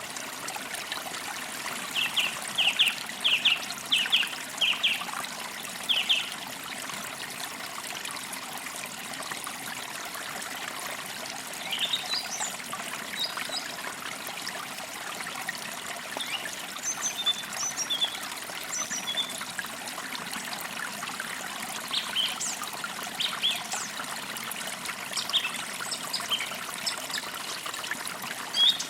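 Forest creek trickling steadily, with birds chirping over it: a quick run of short calls a couple of seconds in, then scattered higher chirps through the second half.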